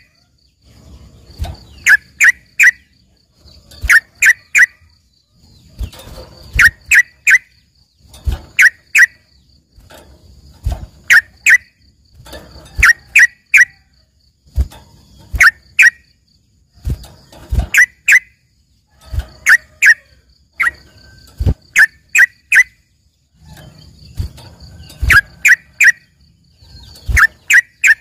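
Yellow-vented bulbul (trucukan) singing. It gives a loud phrase of three or four sharp, quick notes about every two seconds, in a trained song that imitates a greater green leafbird (cucak ijo).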